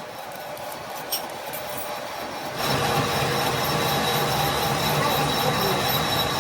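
Factory machinery running with a steady grinding noise and a high whine. It builds slowly, with a single click about a second in, then jumps much louder about two and a half seconds in.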